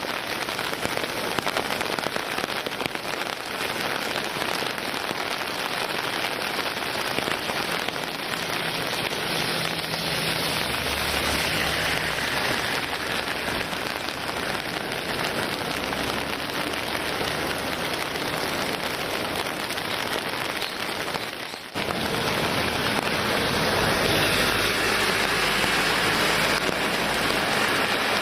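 Heavy typhoon rain falling steadily. There is a sudden break about two-thirds of the way through, and the rain is louder after it.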